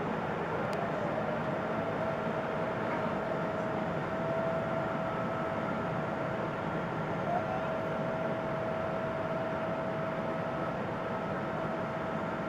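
Boeing 777-236ER cabin noise in flight: a steady rush of air and engine noise from its Rolls-Royce Trent engines, with a steady humming engine tone that rises slightly near the start and then holds.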